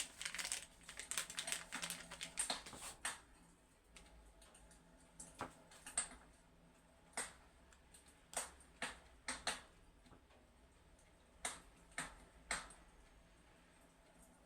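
Fireplace crackling: a quick flurry of sharp crackles in the first few seconds, then single irregular pops about a second apart.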